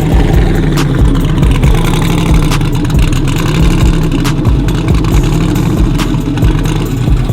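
Modified pickup truck engine running loud and steady, with an uneven low pulse in its rumble.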